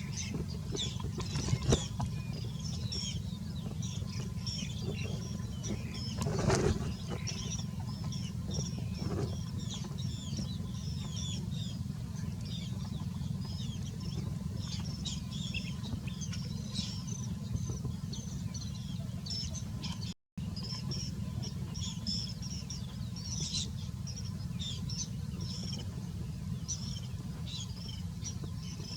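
Small birds chirping: many short, high chirps in quick succession over a steady low rumble, with a brief louder noise about six seconds in.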